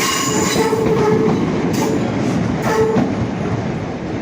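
Class 319 electric multiple unit pulling out of the station: steady running noise from wheels on rails, with a squealing tone that comes and goes, sounding in the first second and again about three seconds in.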